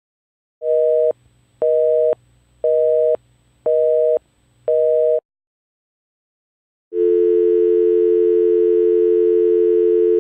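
Telephone busy signal: five short two-tone beeps, about one a second. After a pause of nearly two seconds, a steady telephone dial tone begins about seven seconds in.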